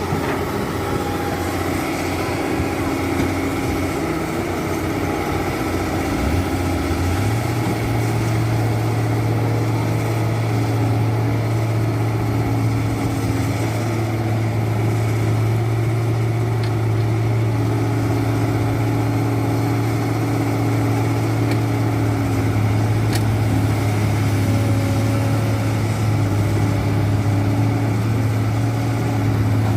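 Dump truck engine running steadily. About seven seconds in, a strong low drone sets in and holds.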